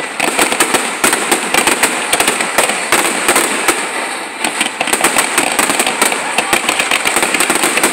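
Fireworks display: aerial shells going off in a rapid, unbroken string of bangs and crackles, several a second, as many shells burst at once.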